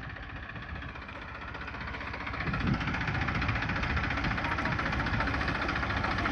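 Deutz-Fahr tractor's diesel engine running with a rapid, even firing beat, growing louder about two and a half seconds in.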